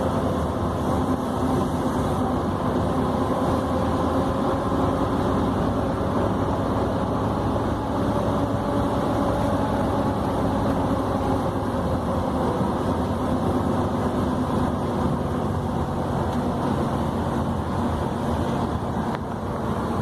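Scania 113 truck's straight-six diesel engine running steadily as the truck drives.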